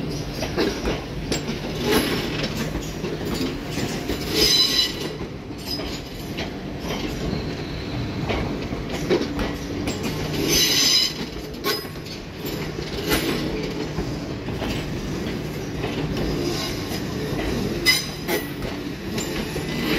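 Southeastern electric multiple unit passing slowly on curved track, its wheels rumbling and clicking over the rail joints. The wheels squeal on the curve, most loudly about four seconds in and again around eleven seconds.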